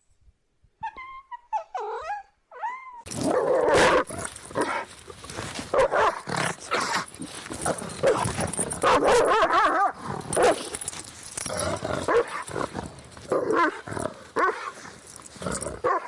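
A domestic cat meows a few times, then from about three seconds in dogs bark without a break, the barks dense and overlapping.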